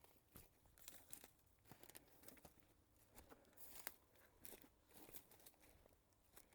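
Faint, irregular crackling and crunching, a few small cracks a second, with one sharper crack about four seconds in.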